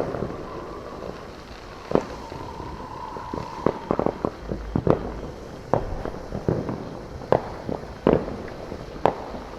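Consumer fireworks going off around the neighbourhood at a distance: a dozen or more irregular sharp bangs and pops, with a steady tone held for a couple of seconds near the start.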